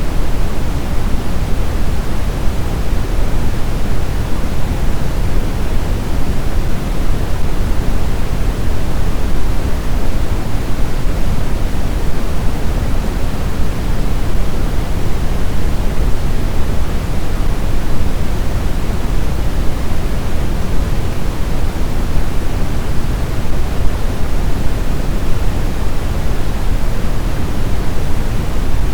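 Steady blizzard wind: a dense, even rushing noise, heaviest in the low end, with no gusts or breaks.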